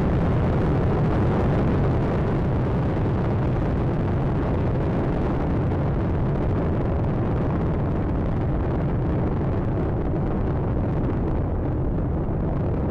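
Space Shuttle Atlantis climbing on its two solid rocket boosters and three main engines: a steady, deep rocket rumble during ascent, the hiss above it thinning over the last few seconds as the vehicle draws away.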